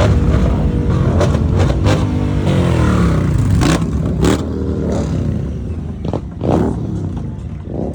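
Motorcycle engines running and revving as bikes ride past, their pitch rising and falling, with the sound slowly fading in the second half.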